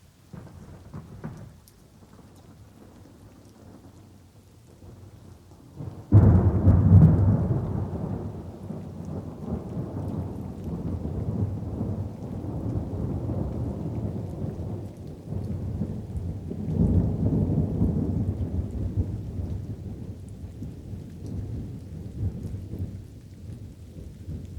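Light rain with thunder: a small rumble about half a second in, then a sudden loud thunderclap about six seconds in that rolls on, swelling again around seventeen seconds and slowly dying away.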